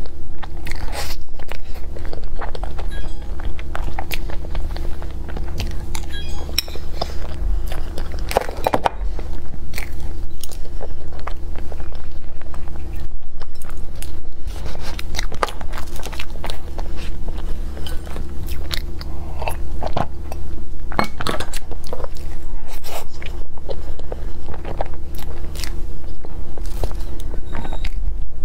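Close-miked mouth sounds of eating soft crepe cake with cream: wet chewing, lip smacks and swallowing in an irregular stream of short clicks, over a steady low background hum.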